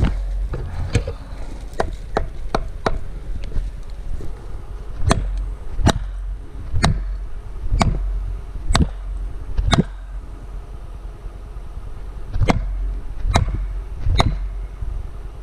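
Repeated heavy blows on a felling wedge, driving it into the cut of a tree: lighter knocks at first, then a run of six strikes about a second apart, a short pause, and three more.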